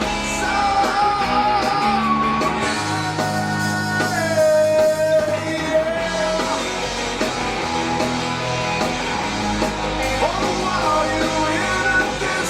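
A rock song with a sung melody over electric guitar and band, the voice holding and bending long notes.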